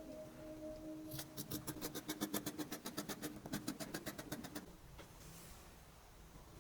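Sewing machine stitching in a fast, even run of clicks, about eight stitches a second, stopping about four and a half seconds in.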